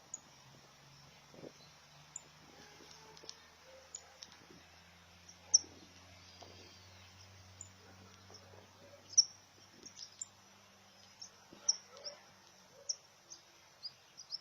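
Small birds giving short, high chirps at irregular intervals, the loudest about five and nine seconds in, over a faint low hum.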